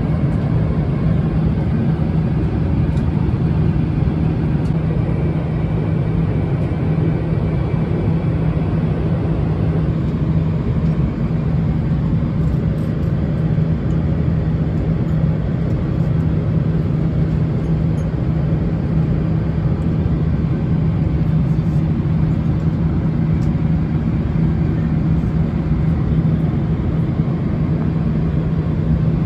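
Steady cabin drone inside a Boeing 777-300ER airliner: an even rush of engine and airflow noise over a constant low hum.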